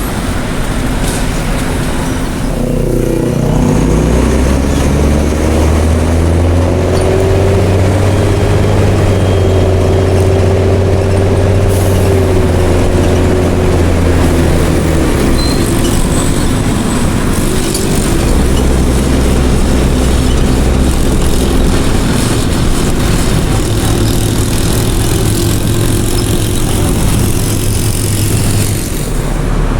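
Mercedes-Benz OM366LA turbo-diesel inline-six of a city bus with an open, unsilenced exhaust, pulling under way. The engine note drops about three seconds in, then climbs and holds, and falls and picks up again several times as the automatic gearbox changes gear and the bus speeds up and slows.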